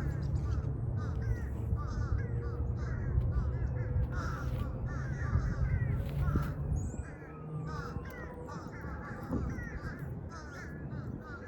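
Crows cawing in a steady run of short calls, about two a second, over a low rumble.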